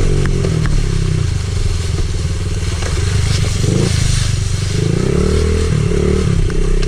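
Pit bike engine running hard while ridden, its revs rising and falling twice near the middle, in first gear. A few sharp knocks and rattles come through as the bike crosses rough ground.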